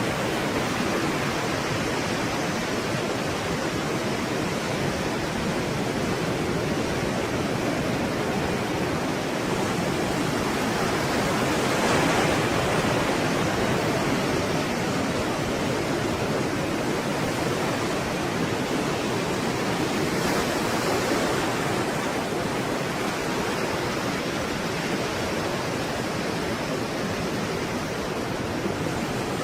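Stormy sea surf: a continuous dense rush of breaking waves, swelling slightly about halfway through.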